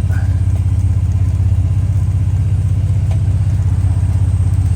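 A 3.5-litre EcoBoost twin-turbo V6 idles steadily through an aftermarket cat-back dual exhaust, a low, even rumble. The small leak at an exhaust joint adds no hiss or tick that can be heard.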